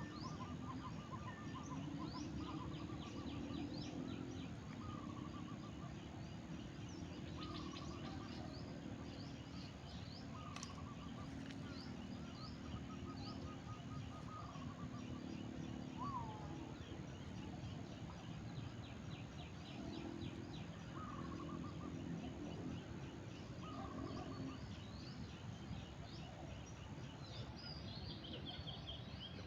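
Several birds chirping and calling, one repeating a short call every second or two, over a steady low background hum.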